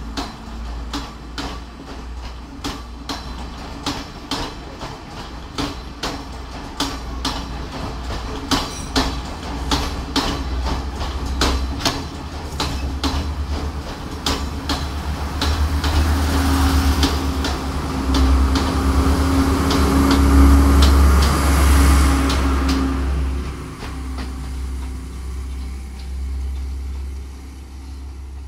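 Passenger train carriages pulling out past the platform, their wheels clacking over the rail joints in an even rhythm that quickens as the train gathers speed. In the middle a louder, steady rumble and hum builds up, then eases off near the end.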